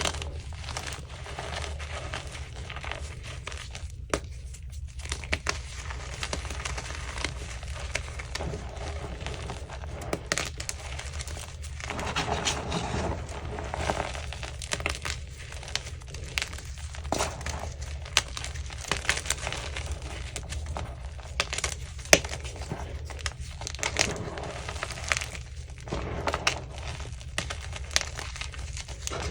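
Chunks of Easy Grip France gym chalk being crushed and crumbled, crunching with many sharp, irregular crackles.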